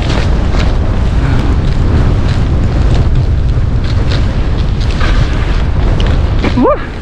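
Wind buffeting the microphone of a skier moving fast downhill, with skis scraping and chattering over snow. Near the end there is a short rising squeal, and the rush drops off as the skier slows.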